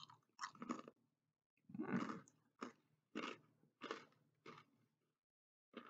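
Someone crunching and chewing a thin, crispy Brooklyn Bites double chocolate chip brownie crisp: about eight separate, unevenly spaced crunches, the loudest about two seconds in.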